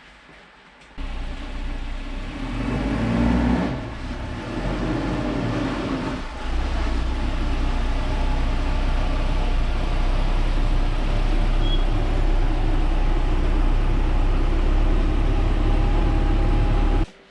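1983 Volvo 240's engine running: it revs up about two seconds in, dips briefly twice, then runs steadily before cutting off suddenly near the end.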